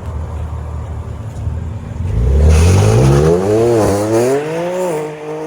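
A car pulling out hard and accelerating away: after a low engine rumble, the engine note climbs steeply and loudly about two seconds in, drops briefly at a gear shift, climbs again, then settles to a steadier, quieter tone as the car moves off.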